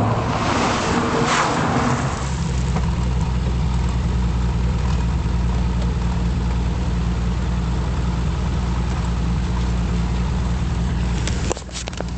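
Alfa Romeo GTV6's 3.0-litre 12-valve V6 with an Ansa exhaust, under power as the car slides across loose gravel, with the hiss of spraying gravel for about the first two seconds, then idling steadily close by. A few clicks near the end.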